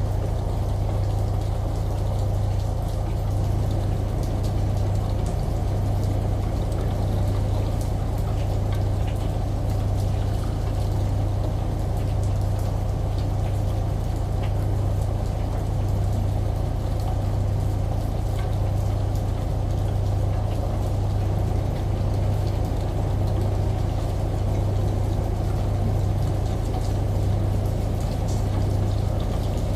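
Ambient mix of rain, a running shower and a washing machine: steady rushing water noise with scattered faint patters, over a low machine hum that swells and fades gently and evenly.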